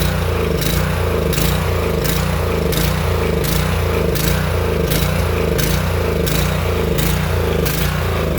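Small single-cylinder gasoline engine of a pressure washer running steadily, revived after being left out in the weather, with a regular pulse about twice a second.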